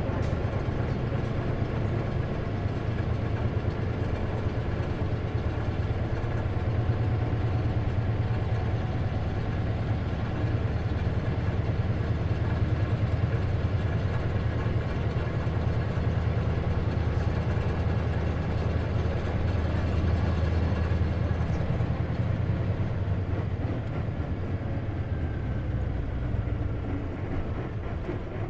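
Inside an Isuzu KC-LV380N city bus: the diesel engine runs with a steady low hum and road noise as the bus drives, easing off slightly near the end.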